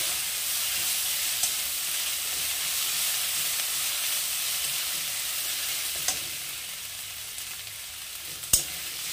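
Sliced onions with ginger-garlic paste sizzling in hot oil in a kadai while being stirred with a metal spatula, which clicks against the pan a few times, the sharpest click near the end. The sizzle eases a little in the second half.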